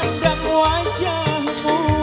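Instrumental break of a live band playing a ballad: a gliding lead melody over bass and a regular drum beat, with no singing.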